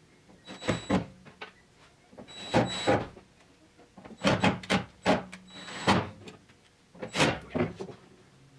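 Metal clatter and knocks of small metal parts and hand tools being handled and fitted, in four short bursts, some with a brief metallic ring.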